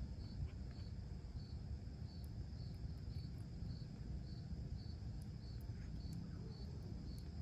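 A cricket chirping steadily, a short high chirp repeated about twice a second, over a low background rumble.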